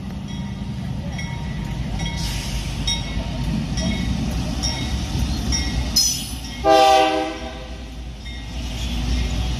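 Freight train hauled by a pair of AC44 diesel-electric locomotives running past with a steady low rumble and regular short high-pitched clicks from the wheels. About two-thirds of the way through, a short horn blast of about half a second is the loudest sound.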